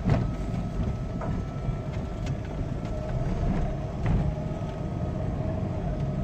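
Truck engine and road rumble heard inside the moving cab, with a steady whine and a few sharp knocks and rattles.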